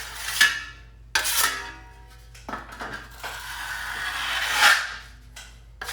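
Wide steel drywall finishing trowel scraping joint compound across a patch in sweeping strokes, feathering a skim coat. A few short strokes come first, then a longer one that grows louder toward its end, about four and a half seconds in.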